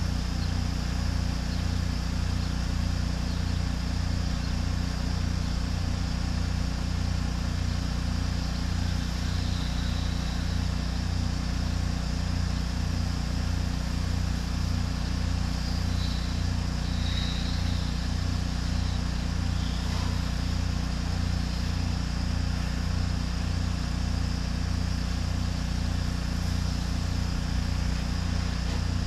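Pressure washer's engine running steadily, a constant low hum with a slight regular pulse.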